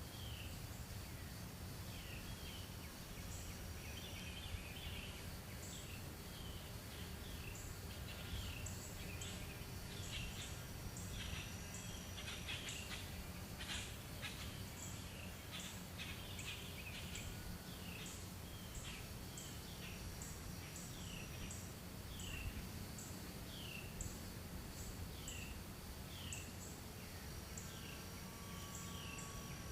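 An unidentified animal calling over and over: a short, high squeak that falls in pitch, repeated about once a second, over a faint steady high tone.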